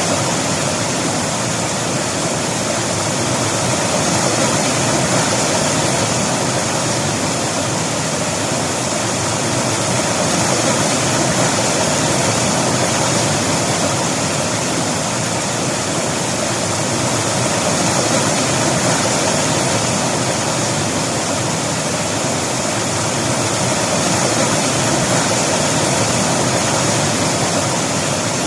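River water flowing and rushing over rocks in a steady, loud, unbroken wash of noise.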